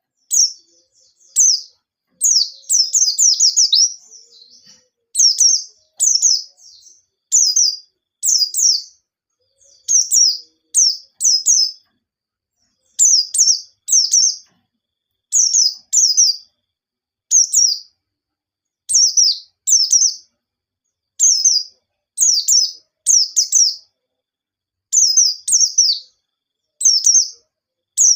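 White-eye (pleci) singing in its fast, sharp 'nembak' style: short bursts of high, quickly falling chirps, repeated about once a second with clean pauses between.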